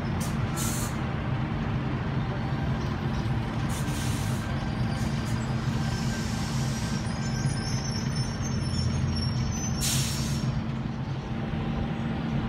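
Sydney Trains Tangara electric train standing at the platform, its equipment giving a steady low hum, with short hisses of air from the brakes about half a second, four seconds and ten seconds in.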